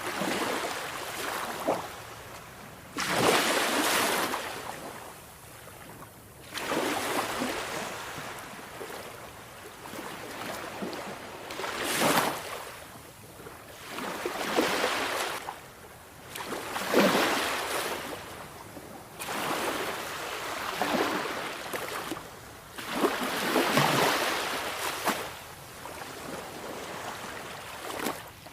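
Sea waves breaking and washing up a shore, one surge after another every few seconds.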